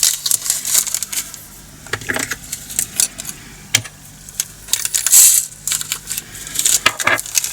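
Loose diamond-painting drills (tiny resin beads) rattling and clicking as they are poured and shaken into small plastic storage containers. The loudest pour comes about five seconds in.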